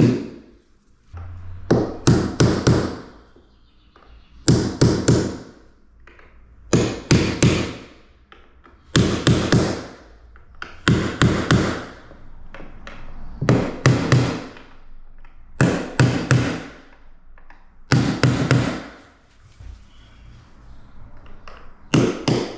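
Hammer driving nails into wooden skirting board in repeated bursts of quick taps, a new burst roughly every two seconds.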